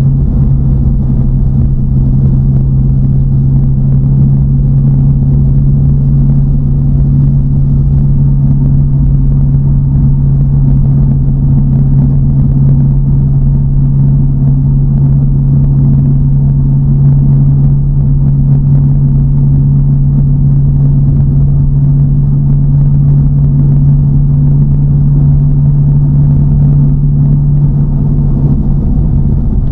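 TVR Chimaera's 4.65-litre V8, fitted with a race cam and with its precats removed, holding a steady cruise: one unchanging engine drone over low road rumble.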